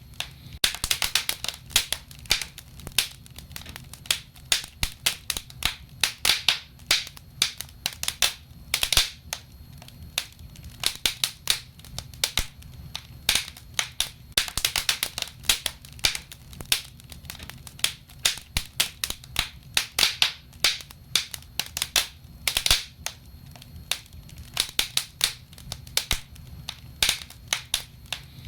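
Wood fire burning in a fireplace, crackling and popping in quick irregular clusters over a low steady rumble of the flames.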